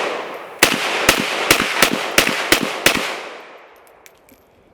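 SKS semi-automatic rifle in 7.62x39 firing a quick, uneven string of about nine shots, each followed by a ringing echo that fades out about a second after the last shot.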